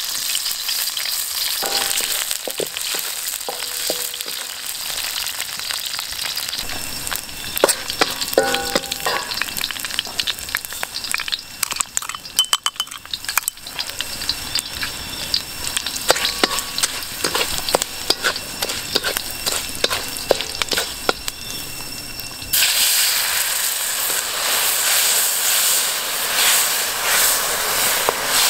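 Lemongrass, galangal, kaffir lime leaves and chili sizzling in hot oil in a steel wok, with a spatula scraping and clicking against the pan as they are stirred. About three-quarters of the way through the sizzling suddenly grows louder and steadier, and the wok steams.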